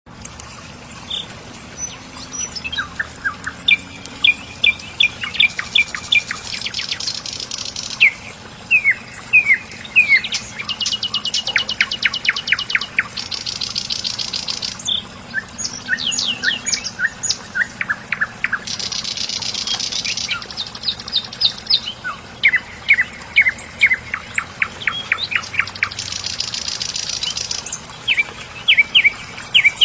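Songbird singing repeated phrases: runs of quick, sharp chirps, each followed by a buzzy trill, over and over.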